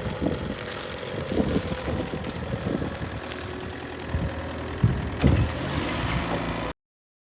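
Linde H35D diesel forklift engine running steadily, with a couple of louder knocks about five seconds in. The sound cuts off abruptly shortly before the end.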